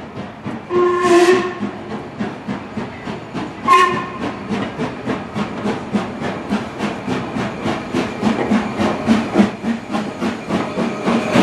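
Steam locomotive giving a whistle about a second in and a short second whistle near four seconds, then working hard with quick, even exhaust beats of about five a second.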